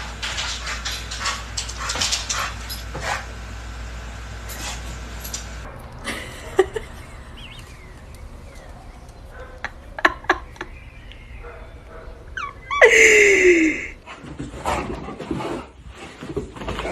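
A dog's loud, short cry about 13 seconds in, falling in pitch, amid scattered clicks and taps.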